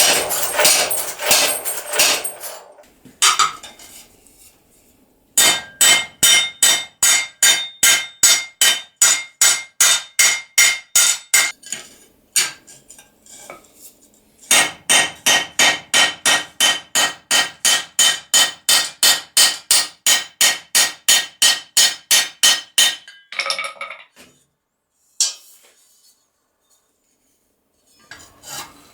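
A hand hammer striking sheet steel on an anvil. It comes as two long runs of quick, even blows, about four to five a second, each blow ringing metallically. Before the runs there is a short, denser clatter of metal.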